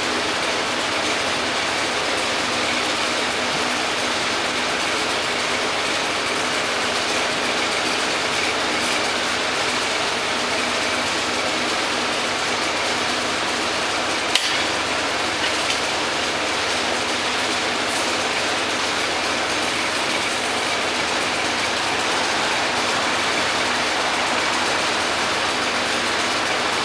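Machinery running steadily with an even, unbroken engine-like drone and one sharp click about halfway through.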